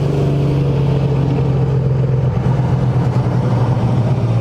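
Car engine running at a steady speed: a loud, low, even drone with no revving.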